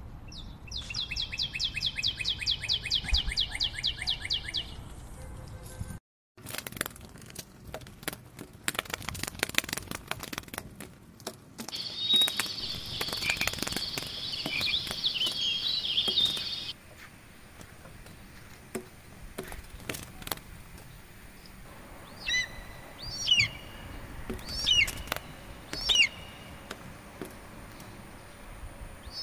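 Birds calling among trees. It opens with a fast rattling trill of high notes, then comes a stretch of scattered clicks and a dense high chirring for a few seconds. Near the end a bird gives short swooping calls a little more than a second apart.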